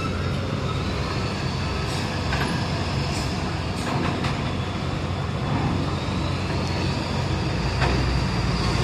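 Heavy truck engines running steadily as loaded trucks drive off a ferry down its ramp, with a few faint knocks.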